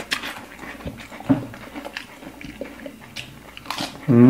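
Close-up chewing and crunching of food, with scattered crisp crunches. Near the end a loud voiced 'mmm' begins.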